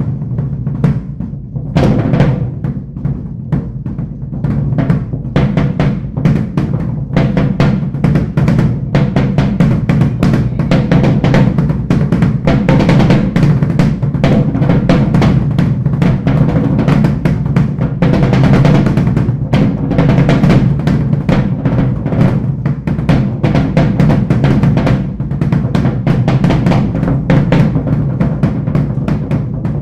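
Live drumming on a drum kit: a dense, unbroken stream of fast strokes.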